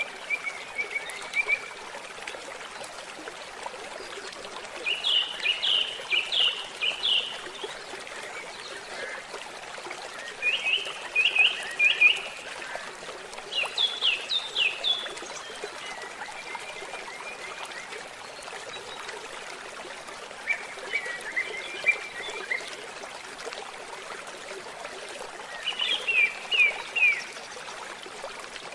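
Small forest stream trickling steadily, with a songbird repeatedly singing a short phrase of quick falling notes, about every four to five seconds.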